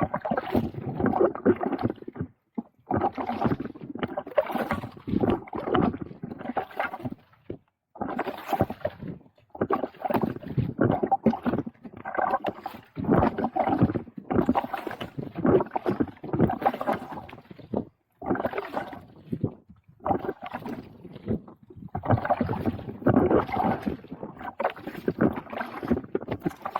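Kayak paddling: the paddle blades dipping and pulling through the water in repeated strokes, with water splashing and short pauses between them.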